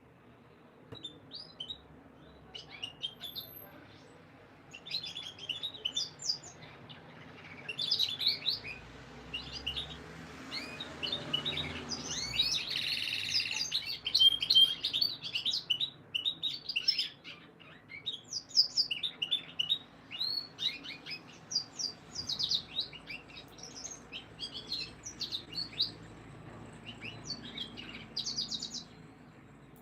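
Canaries singing in short phrases of rapid, high chirping notes, with brief pauses between them. A louder, harsher stretch comes about twelve to fourteen seconds in.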